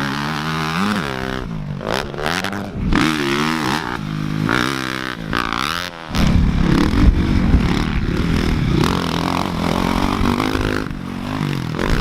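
Motocross dirt bike engines revving on a track, their pitch rising and falling repeatedly as the throttle opens and closes. In the second half a heavy low rumble of wind on the microphone is mixed in.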